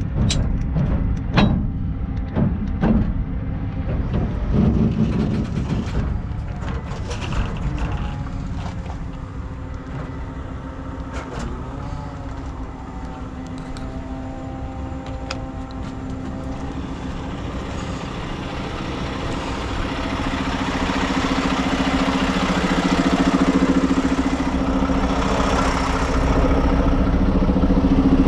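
Heavy truck diesel engine running, with scattered knocks and clanks in the first few seconds. The engine grows louder about two-thirds of the way through and stays up.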